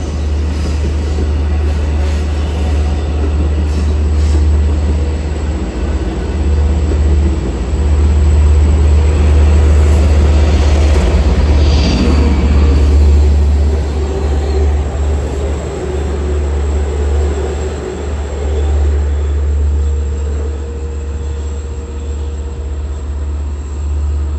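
Long Island Rail Road commuter train running past, a heavy low rumble that swells about a third of the way in and eases off toward the end.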